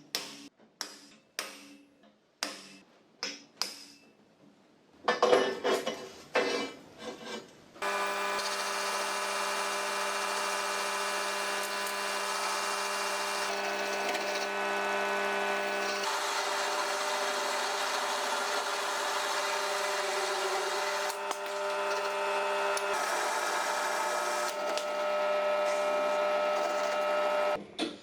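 Hand-tool strokes on metal, about two a second, followed about eight seconds in by a power tool motor that starts and runs steadily with a humming pitch. Its tone shifts slightly twice, as if under changing load, before it cuts off near the end.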